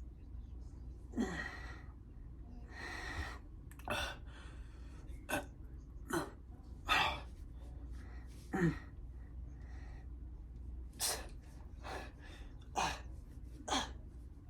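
A man's sharp, forceful exhales and a few short grunts, about ten of them a second or two apart, from the strain of a set of dumbbell forearm curls taken to failure.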